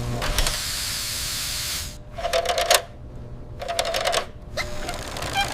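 Cartoon sound effects for a mechanical umbrella helmet opening: a long hiss, then two short bursts of rapid ratcheting clicks over a whirring hum.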